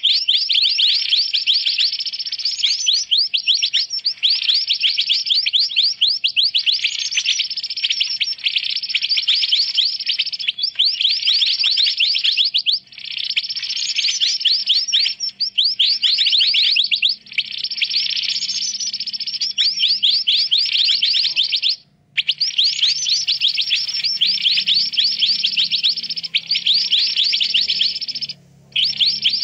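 Bird-lure recording of mantenan birds calling noisily: dense runs of fast, high chirping notes in phrases a second or two long, broken by short pauses.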